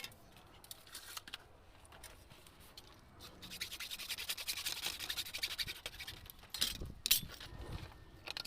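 Rapid rubbing or scrubbing strokes against a surface, starting about three seconds in and lasting about three seconds, followed by a few knocks.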